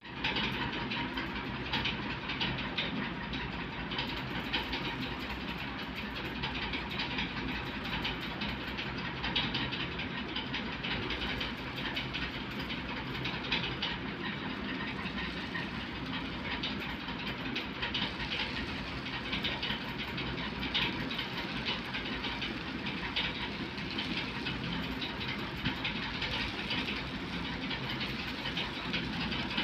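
Raw rice grains being crunched and chewed close to the microphone: a dense, continuous crackling crunch with no pauses.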